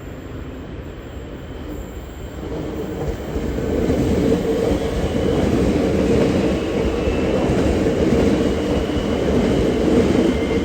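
V/Line locomotive-hauled passenger train running past on the rails as it departs, getting louder about three seconds in and staying loud, with a faint high wheel squeal.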